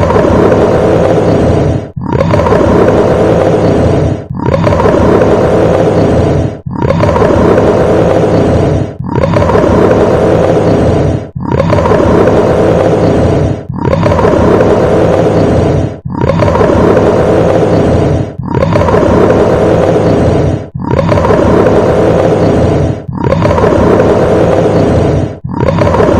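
A large animal's roar, the same call repeated at even spacing about every two seconds.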